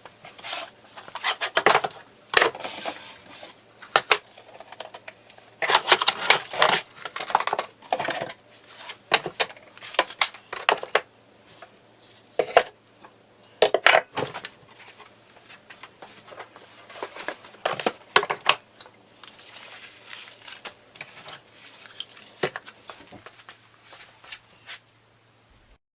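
Hard objects clattering and knocking as they are handled and set down, in irregular bunches of clicks and scrapes, over a steady low hum.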